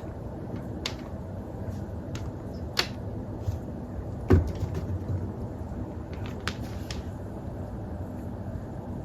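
Several light clicks and one heavier thump about four seconds in, over a steady low hum.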